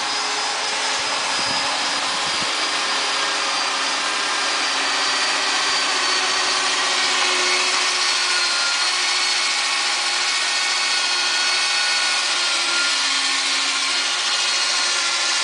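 Truck loading conveyor running steadily: a continuous mechanical whirr with several thin high-pitched whines that drift slightly in pitch.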